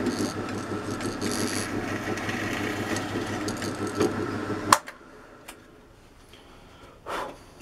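Drill press running as a 1/4-inch bit drills through a wooden jig block, a steady motor hum; about three-quarters of the way through it is switched off with a sharp click and stops. A short knock follows near the end.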